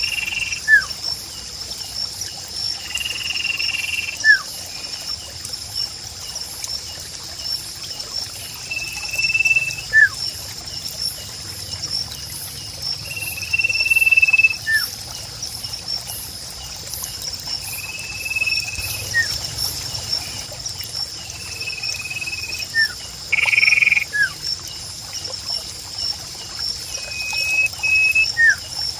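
Nature ambience: a steady high insect drone under repeated bird calls, a short held whistle every four or five seconds, each followed by a quick falling note.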